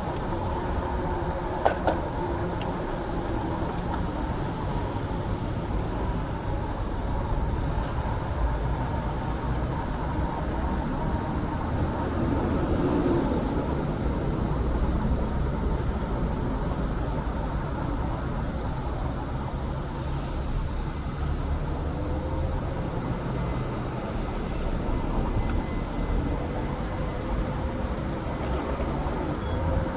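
City street traffic heard from a moving bicycle, with a steady low rumble of wind on the microphone and faint passing-vehicle hum. A single sharp click comes just under two seconds in.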